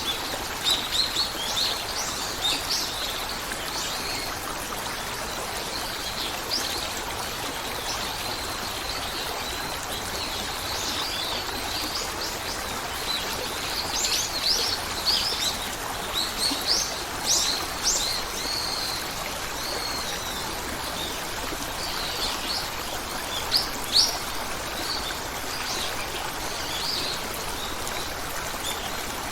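Steady running water of a forest stream, with birds chirping in short, quick high calls that come in clusters: near the start, a busier spell from about 13 to 18 seconds in, and a couple of loud calls about 24 seconds in.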